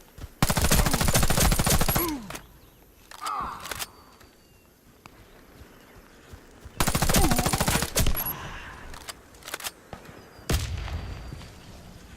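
Suppressed AS Val assault rifle firing on full automatic: two long bursts of rapid shots, about six seconds apart, with a few single cracks afterwards.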